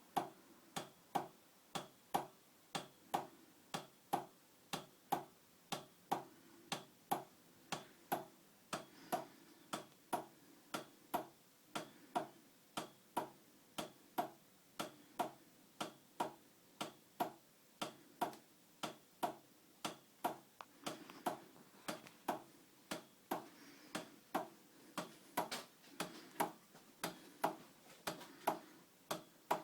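Vintage Heinrici 55 mm hot air (Stirling-type) engine running slow, knocking about twice a second with a sharp, even tick.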